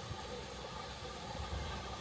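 Steam train passing with a steady low rumble.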